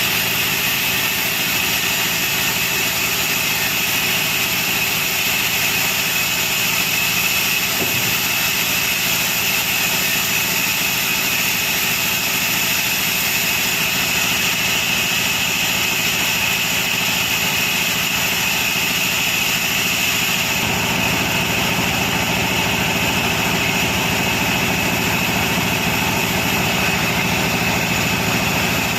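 Sawmill machinery running steadily, with a constant high whine over a low machine rumble. About two-thirds through, the low rumble grows stronger.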